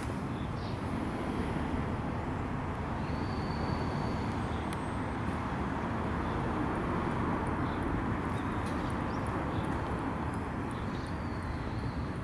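Steady low rumbling outdoor background noise with no single clear event, and a couple of faint high chirps about three and eleven seconds in.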